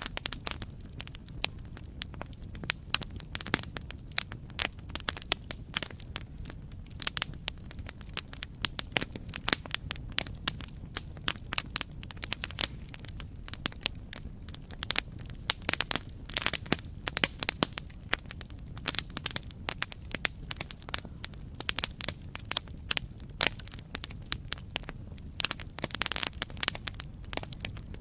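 Campfire crackling: irregular sharp pops and snaps of burning wood over a low steady rumble of the flames, with busier bursts of crackling now and then.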